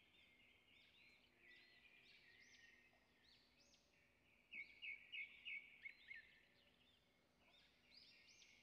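Faint chirping of small birds, with a quick run of louder chirps about halfway through; otherwise near silence.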